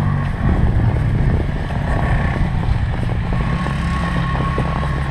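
A steady, low engine-like rumble.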